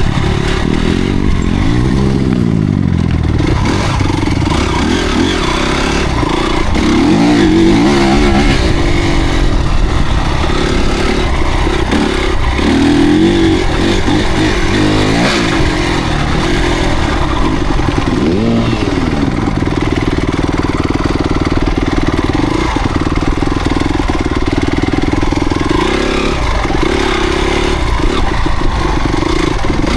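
Motocross dirt bike engines revving, the pitch rising and falling again and again as the throttle is worked, then holding a steadier note in the later part.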